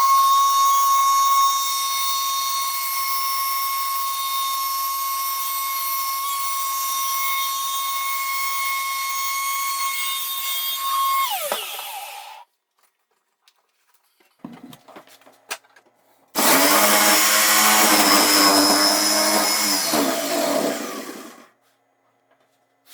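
Electric power tool running steadily with a high whine for about eleven seconds, then winding down. After a pause of a few seconds a second run of about five seconds follows and cuts off.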